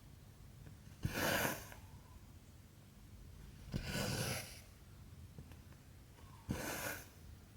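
Cotton embroidery thread being drawn through 14-count cross-stitch fabric: three pulls about every two and a half seconds, each starting with a short tick.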